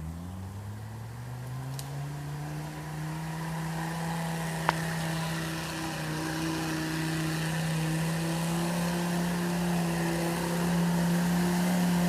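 Mercedes 617 3.0 five-cylinder diesel in a UAZ off-roader, pulling up in revs over the first few seconds and then running steadily under load, growing gradually louder. One sharp knock comes about halfway through.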